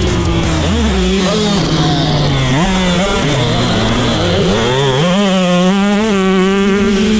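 Dirt bike engines revving and running on a motocross track. The pitch rises and falls with the throttle and gear changes, then holds at a high steady rev from about five seconds in.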